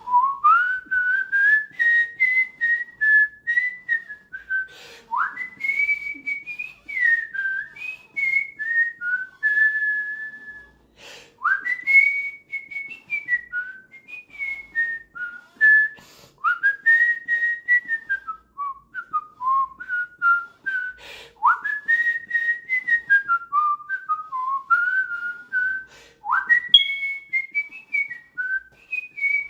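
A person whistling a slow tune, one clear note at a time, each phrase opening with a quick upward slide; a new phrase starts about every five seconds.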